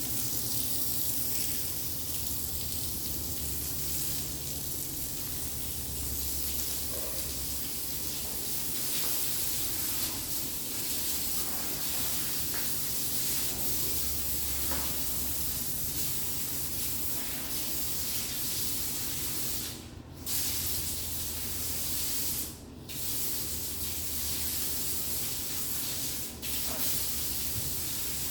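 Water spraying in a steady hiss, cut off three times briefly in the last third.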